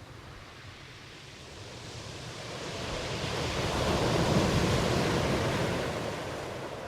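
Ocean surf: a single wave washes in, swelling to a peak about four seconds in and then ebbing away.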